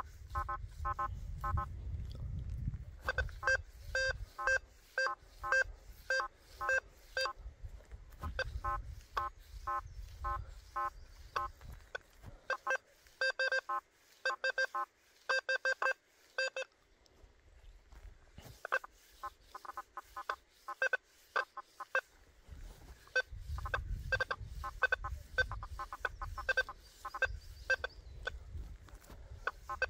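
Quest V80 metal detector giving short target beeps as its coil sweeps over buried test targets, the beeps coming in quick clusters with a break about halfway through. A low rumble sits under parts of it.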